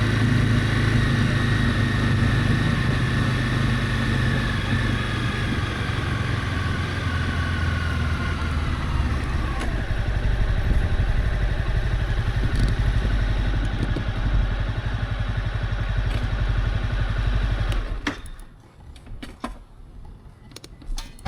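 Honda CB300F single-cylinder motorcycle engine running as the bike slows, its whine falling in pitch over about ten seconds, then a steady low rumble. Near the end the engine cuts off abruptly, followed by a few light clicks and rattles.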